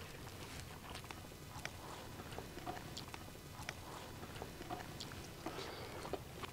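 Close-up chewing and lip smacking of a person eating rice and fish curry by hand, with irregular wet clicks about once or twice a second.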